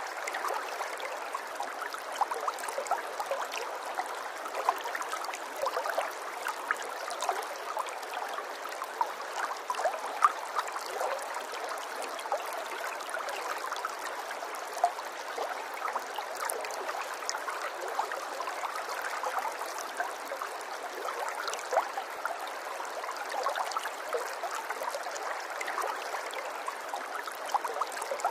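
Running water in a small stream babbling steadily, a dense patter of small splashes and gurgles.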